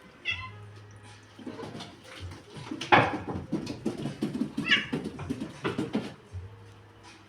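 Domestic cat meowing, a short meow just after the start and another about four and a half seconds in. Between them come clattering and knocking sounds, the loudest about three seconds in.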